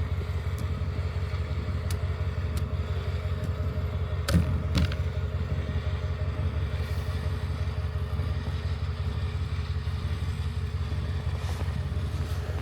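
A vehicle engine running steadily at a low, even speed, with two sharp knocks about four and a half seconds in.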